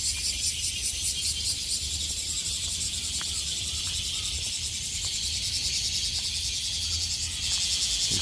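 Cicadas singing: a high, steady, rapidly pulsing buzz from several insects, the chorus still thin early in the season and not yet deafening.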